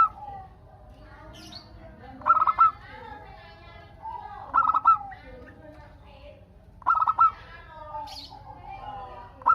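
Zebra dove (perkutut) singing: a short, bright, staccato coo phrase repeats about every two and a quarter seconds, three times in full, with fainter calls and a couple of brief high chirps between.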